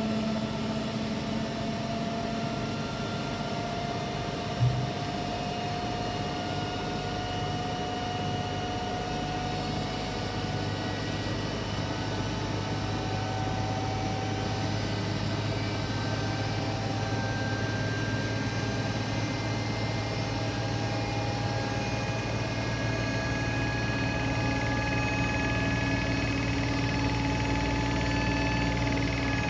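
Washing machine running: a steady motor hum with faint whining tones that drift slowly upward in pitch, and a single short knock about five seconds in.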